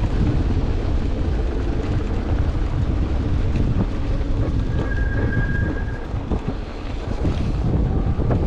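Strong gusty wind buffeting the microphone in a snowstorm, a dense low rumble that never lets up. About halfway through, a thin high tone sounds for about a second and a half.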